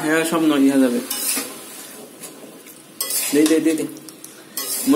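Chopped vegetables sizzling in a steel pot on a gas burner as they are stirred, the frying hiss swelling and fading. A person's voice is heard briefly three times.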